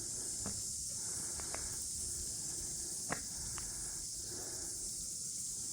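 Steady high-pitched hiss of insects, with a few faint clicks, the clearest about three seconds in.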